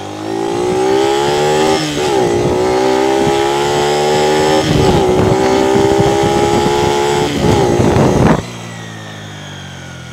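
Honda Dream 50's small single-cylinder engine accelerating hard through the gears under a rider: the pitch climbs in each gear and drops back at three upshifts, about 2, 5 and 7 seconds in. The throttle snaps shut a little past 8 seconds, and a much quieter, lower engine note is left.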